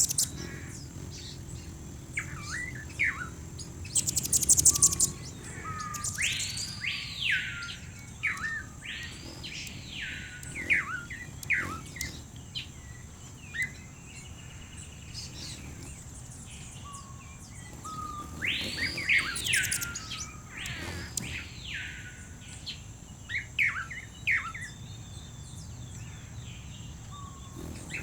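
Birdsong from several birds: a whistled call that rises and falls, about a second long, comes twice early on and twice again later, among short chirps. A loud buzzy trill sounds about four seconds in.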